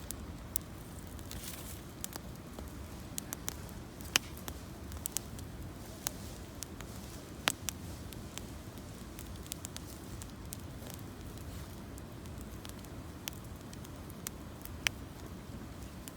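Campfire of gathered branches and fallen leaves crackling, with irregular sharp pops, the loudest about 4, 7.5 and 15 seconds in, over a steady low rushing noise.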